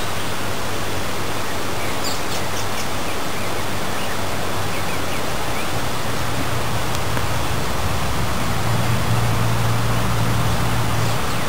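Steady, even rushing noise of outdoor background, with a few faint high chirps about two to three seconds in and a low hum coming in during the second half.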